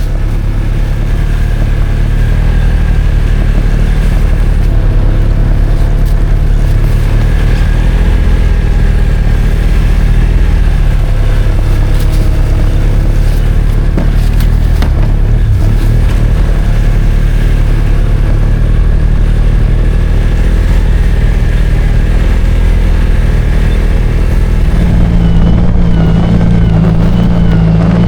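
Snowmobile engine running loud and steady while riding, building up over the first few seconds; its tone changes slightly near the end.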